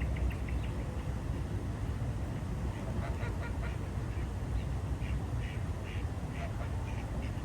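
Ducks quacking in short runs of clipped calls, a few at the start, a burst about three seconds in and more around five to six and a half seconds, over a steady low rumble.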